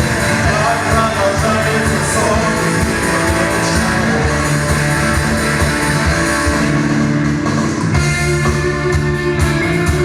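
Live rock band playing: guitars and drums, with singing over them.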